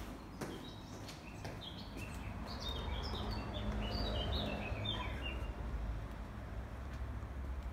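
A songbird singing a run of short, high chirping notes, several falling in steps, over a steady low background rumble.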